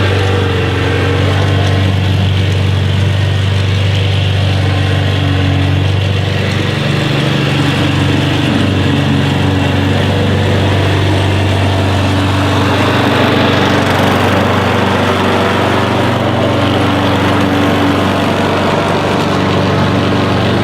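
An engine running steadily at an even speed, with a low, constant hum; from about twelve seconds in it takes on a rougher, noisier edge.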